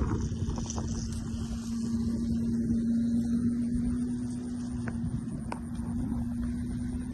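A steady low hum on one pitch that stops suddenly near the end, over low rumbling noise like wind on the microphone.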